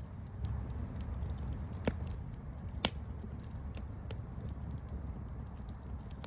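Campfire burning with a steady low rumble and scattered crackles and pops, the sharpest pop about three seconds in.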